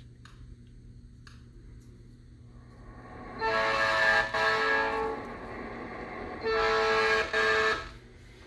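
Recorded train horn sound effect played over a speaker, triggered by an RFID tag: two long horn blasts about three seconds apart, each briefly broken in the middle.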